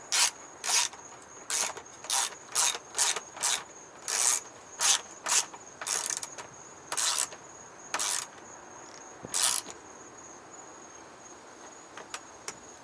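Hand socket ratchet clicking in repeated back-and-forth strokes, about two a second, as a bolt is run down tight. The strokes slow and stop about nine and a half seconds in.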